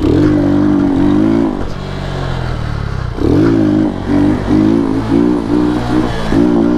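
Lifan KP Mini 150 pit bike's small single-cylinder engine being revved: a burst of revs held for about a second and a half, a lower, steadier stretch, then a run of short throttle blips, about two a second, from halfway on.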